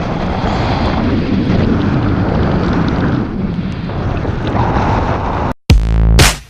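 Strong wind blowing across the microphone: a loud, steady rush with no pitch to it. It cuts off abruptly near the end, and electronic music with heavy bass hits starts.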